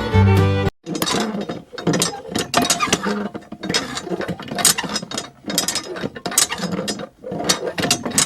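Music stops abruptly just under a second in, followed by rapid, irregular clicking and rattling of a small mechanism.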